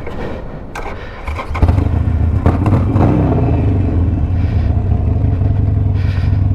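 Harley-Davidson Sportster Iron 1200's air-cooled V-twin with a Two Brothers 2-into-1 exhaust, running with the bike at a standstill. About one and a half seconds in it gets suddenly louder and then holds a steady, deeper run; a few short clatters come before that.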